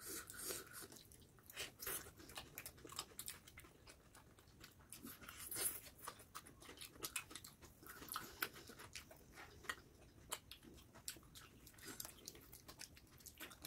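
Close-miked chewing of spicy pan-fried momos by two people eating with their hands: soft, irregular clicks and small crunches of mouths at work.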